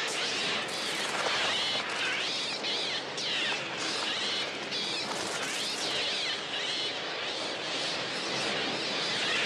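A flock of birds screeching, with many overlapping cries rising and falling in pitch over a steady hiss.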